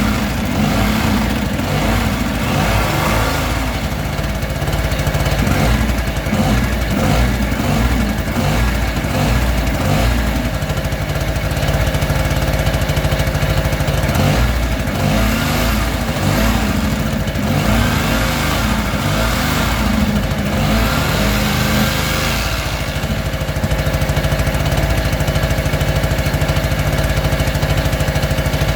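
A motor or engine running steadily, changing its note a little about ten seconds in and again a few seconds before the end.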